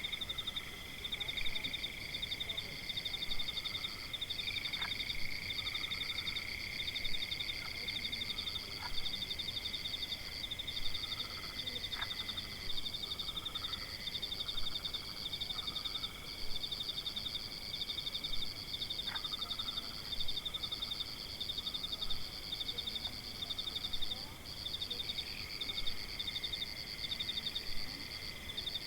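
Forest animal chorus: several callers trill steadily in rapid, even pulses, with softer repeated calls lower down and a few faint clicks.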